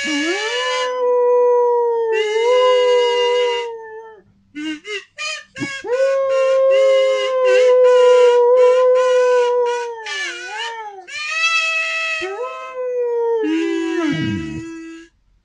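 A pet dog howling along to a kazoo: long, wavering howls over the kazoo's buzzy held notes, with a run of short kazoo notes about five seconds in.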